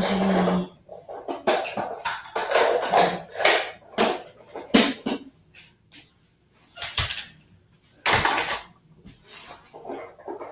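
Clattering knocks and scrapes of hard objects being handled and set down, a string of sharp irregular knocks with short scraping noises between them.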